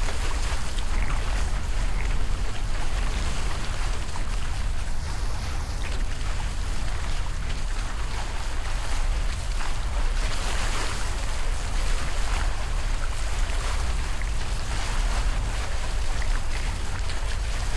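Wind buffeting the microphone and water rushing along the hulls of a Hobie 16 catamaran under sail, a steady rumble and wash with no breaks.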